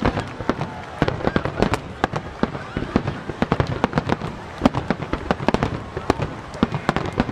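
Rapid barrage of aerial firework shells bursting in a starmine finale: irregular overlapping bangs and booms, several a second, without a break.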